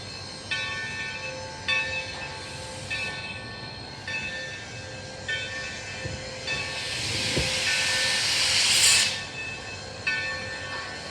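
Steam locomotive's bell ringing about once a second, with a loud rush of hissing steam that builds over a couple of seconds about two-thirds of the way in and then cuts off suddenly.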